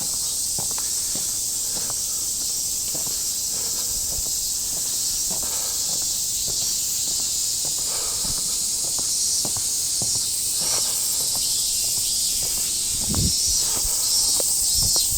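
Steady high-pitched buzz of a summer insect chorus, with a person's footsteps walking, the steps a little louder near the end.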